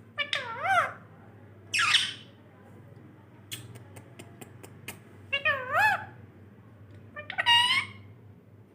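Pet Indian parrot squawking four times in harsh, wavering calls. A quick run of sharp clicks comes between the second and third calls.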